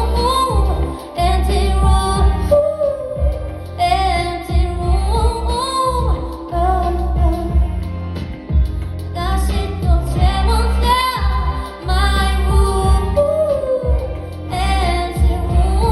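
A woman singing a slow song live over instrumental backing with a steady, prominent bass line, her voice sliding between held notes.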